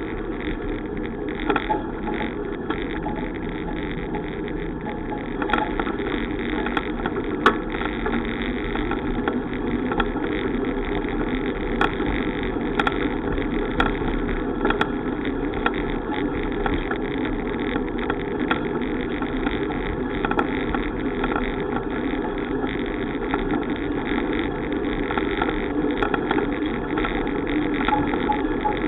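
Steady rushing wind and tyre noise on a microphone riding along on a moving bicycle, with a few small clicks and rattles scattered through it.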